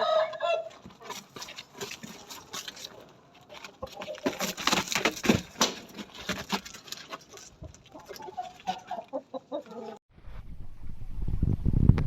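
Fighting roosters clucking, with scattered clicks between the calls. About ten seconds in, the sound cuts abruptly to a low rumbling noise.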